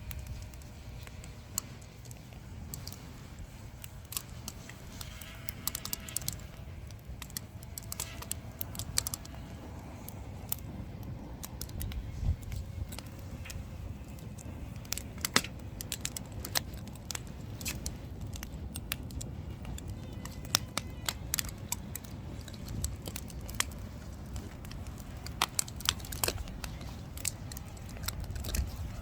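Wood fire crackling, with frequent sharp snaps and pops of uneven strength over a steady low rumble.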